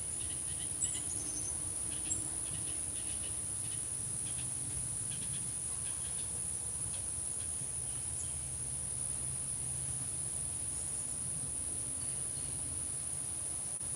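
Steady, high-pitched drone of singing insects, with scattered short bird chirps and a brief falling whistle about a second in.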